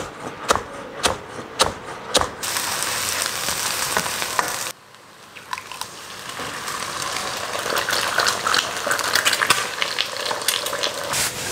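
A kitchen knife chopping spring onions on a wooden board, five sharp chops about half a second apart. Then hot oil sizzling in a wok, which cuts off suddenly near the middle and builds again as eggs and chopped aromatics fry, with light clinks of stirring.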